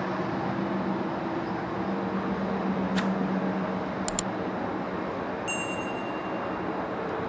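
GO Transit diesel commuter train approaching, a steady rumble with a low hum under it. Sharp clicks about three seconds in and again just after four seconds, and a short high ding about five and a half seconds in.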